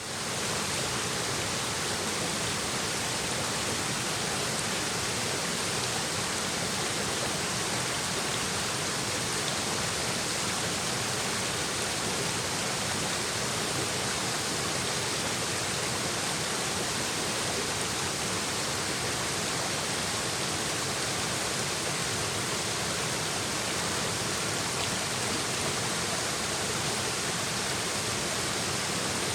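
A shallow stream babbling steadily over rocks, a constant rush of running water that fades in at the very start.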